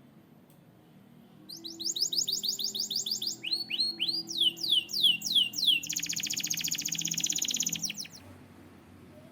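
Canary singing one song of three phrases of repeated notes, starting about a second and a half in: a quick run of high falling notes, then a slower run of lower, longer notes, then a very fast trill that stops about eight seconds in.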